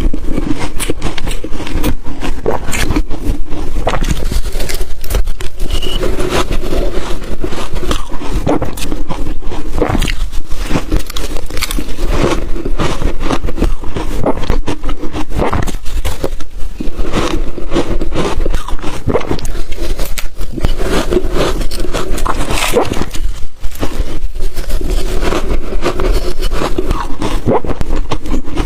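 Ice being bitten and chewed close to the microphone: a dense, continuous run of loud crunches and crackles.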